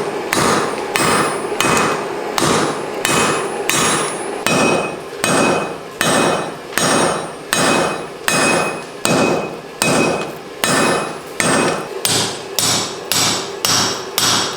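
Blacksmith's hand hammer forging steel on an anvil in a steady rhythm of blows, about one every three-quarters of a second, quickening to about two a second near the end. Each blow rings with a metallic ping.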